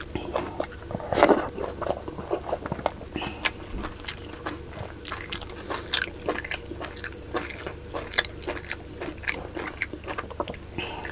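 Close-miked eating: a person chewing and biting food, with many small mouth clicks and smacks and one louder bite about a second in.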